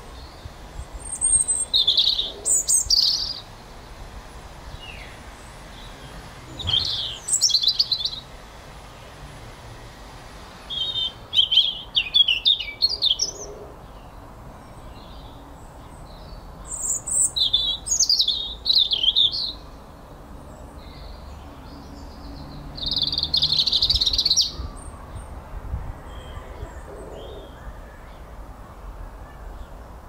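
Small birds chirping: five short bursts of quick high chirps a few seconds apart, over a faint low steady background noise.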